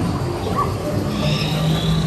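Theme-park boat ride soundscape: recorded jungle-creature calls over a steady wash of noise, with a short call about half a second in and higher calls near the end.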